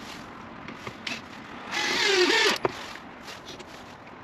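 A power drill runs into wood for about a second, its motor pitch wavering as it loads up, and stops with a click. A few light taps and clicks come before it.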